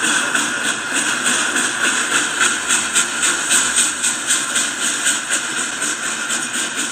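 N scale model freight train running on its track, its Reading 2102 locomotive model giving a steady whine over a fast, even clicking of wheels on the rails.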